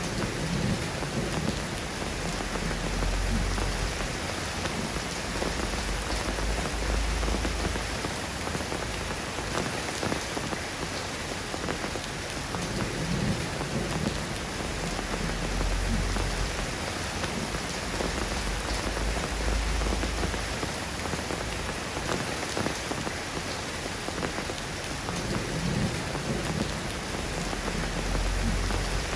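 Steady soft rain falling, an even hiss of many drops, with low rumbles swelling up several times underneath.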